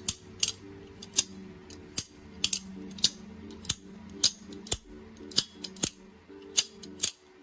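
Button-lock folding knife (MaxAce Babylon) being flicked open and shut over and over: a string of about a dozen sharp metallic clicks, roughly two a second, as the blade locks and releases. Quiet background music plays underneath.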